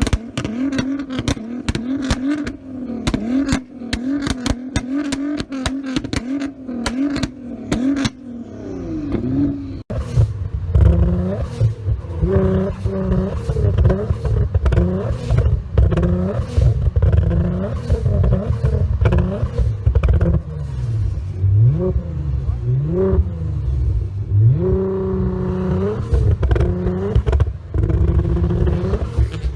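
Nissan GT-R R35's twin-turbo V6 held at raised revs, with rapid pops and bangs from the exhaust. After a cut about ten seconds in, it is revved again and again, its pitch climbing and falling with each blip.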